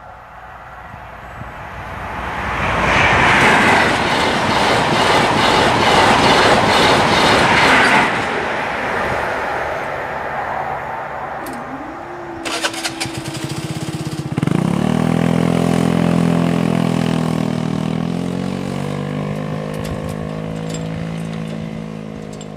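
A VTEC HST passes at speed over the level crossing: a loud rush of wheels on rail with a rapid clatter, building over a couple of seconds and cutting off sharply about eight seconds in. The barriers then lift with a short rising whine, and a scooter pulls away across the crossing, its engine note holding steady as it slowly fades.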